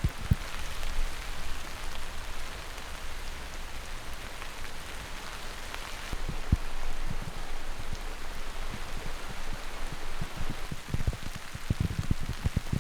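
Steady rain falling, with scattered heavier drops knocking on a surface, more of them near the end.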